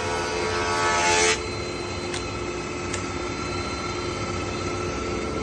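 Felder planer/joiner combination machine with a 20-inch helical cutterhead, cutting a board. The cutting noise stops suddenly about a second in as the board clears the cutterhead, and the machine keeps running unloaded with a steady hum and whine.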